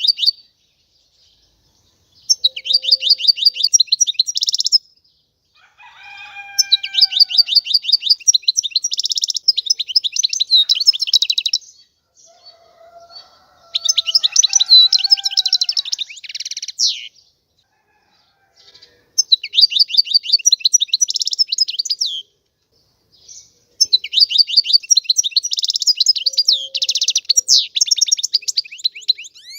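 European goldfinch singing: bouts of fast, high twittering trills a few seconds long, with short pauses between, five bouts in all. Fainter, lower falling calls sound behind the song twice.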